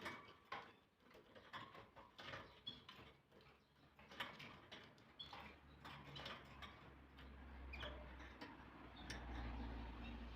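Canary bathing: faint, irregular small splashes and taps of water and wings, with a few short high chirps. A low rumble comes in about halfway through.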